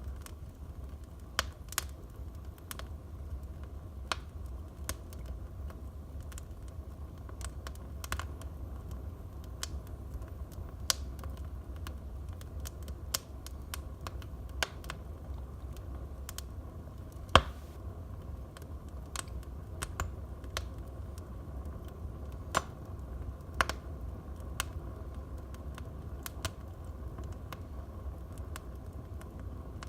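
Wood fire in a fireplace crackling, with irregular sharp pops and snaps, the loudest about 17 seconds in, over a steady low rumble.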